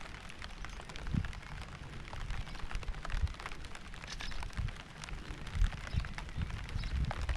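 Rain falling, heard as a steady hiss with many separate sharp drop ticks and irregular dull low thuds.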